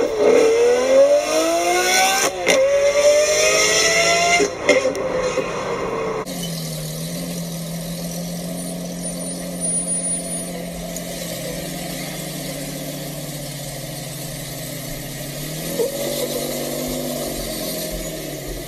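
A car engine accelerating hard, its pitch rising and dropping twice as it shifts up, ending abruptly about six seconds in. Then a Jeep Wrangler's engine runs steadily at low revs as it crawls up a steep rock slab, with a brief rev near the end.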